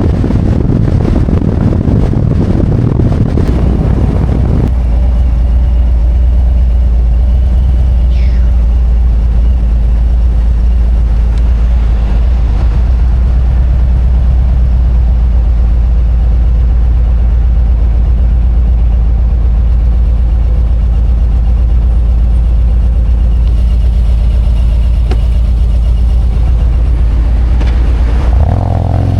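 Harley-Davidson Road Glide's V-twin engine with wind rushing over the microphone; about five seconds in the wind noise drops away and the engine idles steadily. Near the end the engine note changes and gets louder as it picks up again.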